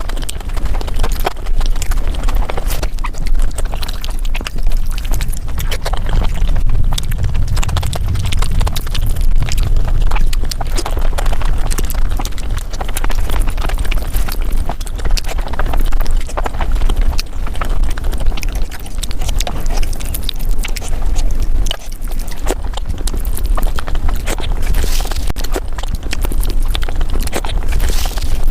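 Close-miked mukbang eating sounds sped up five times: chewing and wet mouth smacks of someone eating palak paneer, turned into a dense, rapid clatter of clicks.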